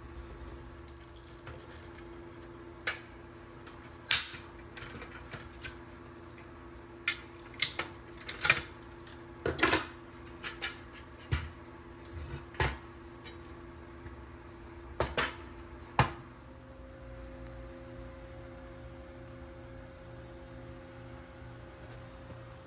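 Irregular light clinks and knocks of small metal parts being handled, a dozen or more over about thirteen seconds, then they stop.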